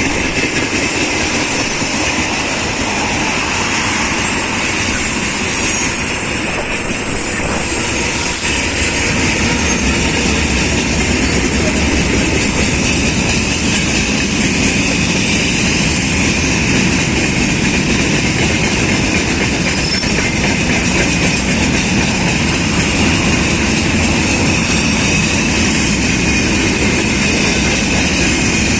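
Freight train's wagons rolling past, a steady loud rumble of steel wheels on the rails with clickety-clack over the joints.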